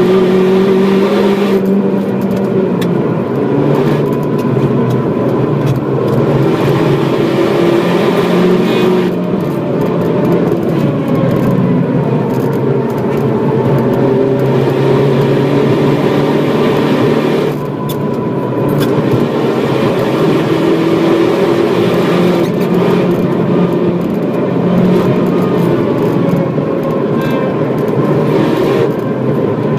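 Opel Astra H OPC's turbocharged two-litre four-cylinder engine running hard at speed, heard from inside the cabin with wind and tyre noise. The engine note shifts in pitch and breaks briefly a few times.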